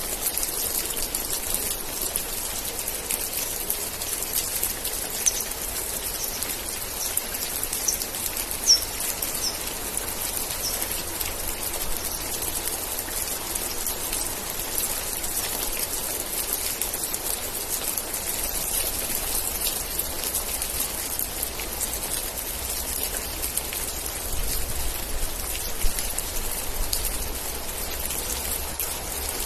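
Steady rain falling, a dense hiss of drops with a few louder single drop hits. A few short high chirps sound between about five and eleven seconds in.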